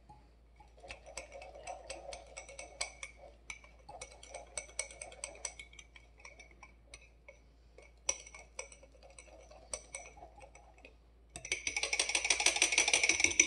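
A utensil stirring microwave-bread batter in a ceramic egg cooker, with irregular clinks and scrapes against the ceramic. For the last two seconds the stirring turns fast and louder, a dense run of rapid scraping clicks.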